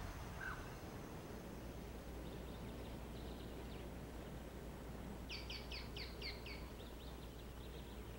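Faint quiet background with a steady low hum, and a bird calling a quick run of about six short falling chirps about five seconds in, with fainter chirps before and after.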